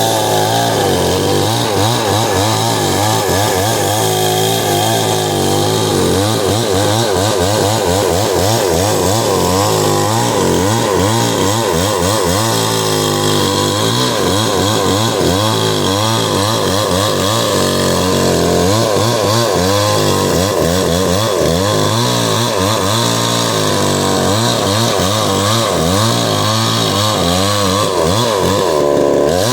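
Chainsaw running and cutting wood, its engine pitch wavering up and down the whole time as the chain works under load.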